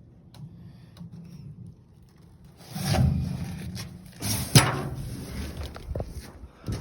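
Rubbing and rustling, swelling twice, with one sharp knock about four and a half seconds in.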